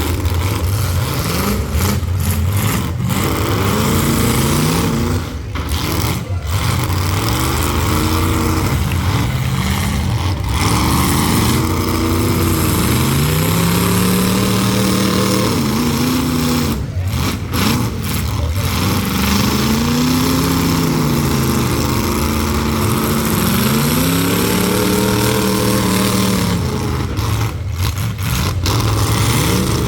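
Demolition derby cars' engines revving up and falling back over and over, several at once, over a steady rumble.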